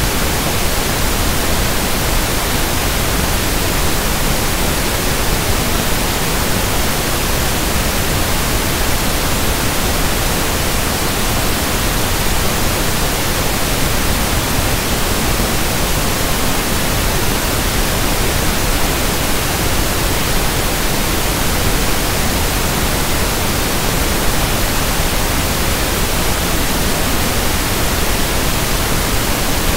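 Synthetic pink noise: a steady, even hiss spread across the whole frequency range, with no change in level or character.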